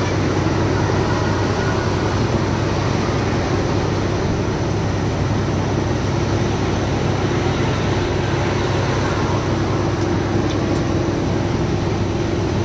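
A loaded truck's diesel engine and road noise heard from the cab while cruising on the highway: a steady low drone with an even road hiss over it.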